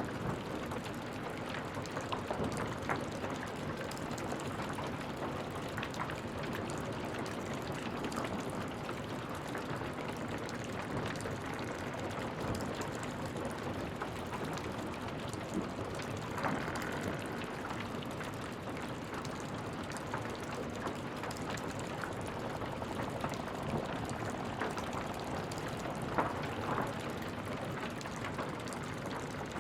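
Wood fire burning in a fireplace: a steady hiss with frequent small crackles and occasional louder pops.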